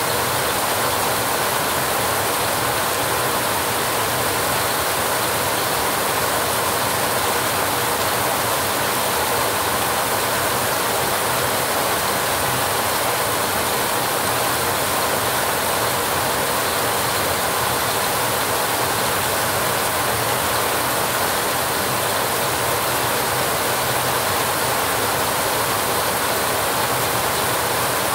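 Heavy rain drumming on a rusty metal roof: a dense patter at an even level.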